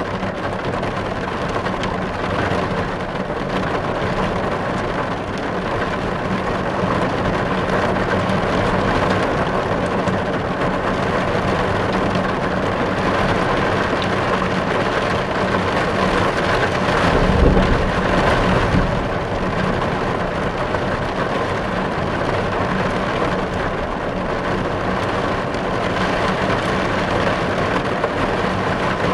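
Heavy rain drumming steadily on a car's windows and roof, heard from inside the car. A brief low rumble swells and fades about two-thirds of the way through.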